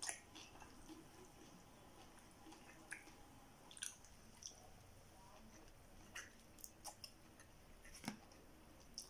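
Faint chewing and mouth noises of a person eating rice and kimchi, with a few short sharp clicks scattered through.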